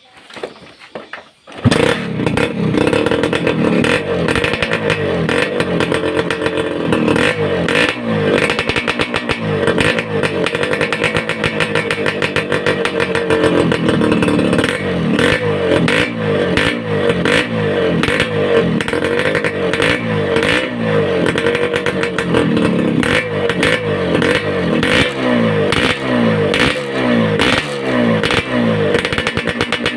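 Suzuki Satria two-stroke motorcycle engine running through an aftermarket racing exhaust whose silencer has been packed with glasswool. It comes in suddenly about two seconds in and is revved up and down, with quick repeated throttle blips near the end. This is a sound check of whether the packing makes the exhaust note denser and less tinny.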